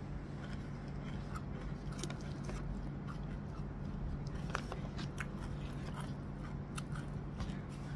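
Close-up chewing of a mouthful of nasi lemak, with many small scattered mouth clicks, over a steady low hum.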